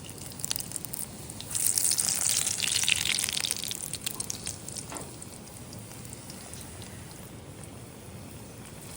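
Donuts frying in hot oil in a pan, sizzling and crackling. The sizzle swells loud about a second and a half in, holds for a couple of seconds, then settles to a quieter steady sizzle.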